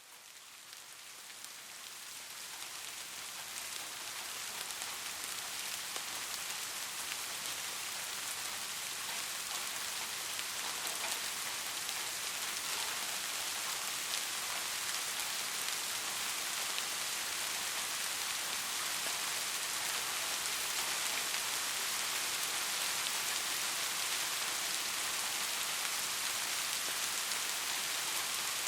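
Steady rain falling, a dense even hiss with many small drop ticks, fading in over the first few seconds and then holding steady.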